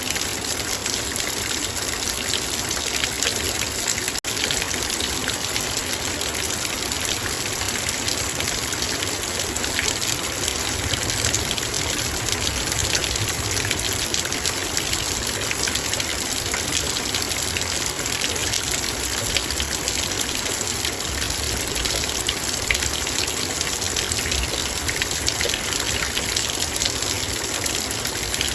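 Heavy rain pattering steadily on a metal bowl, a dense hiss of many drops. A split-second dropout about four seconds in.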